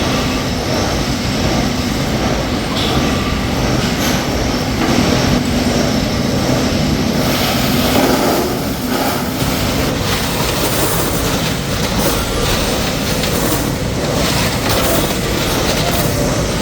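Metalworking machinery running steadily: a loud continuous rumble with a low hum and scattered metallic clatter.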